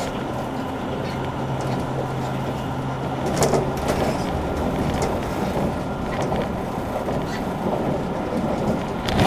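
Running sound of a JR Kyushu 883 series electric train with Toshiba GTO-VVVF traction equipment, heard inside the car: a steady rumble of wheels on rail with a low hum. A few sharp clicks come about three and a half seconds in.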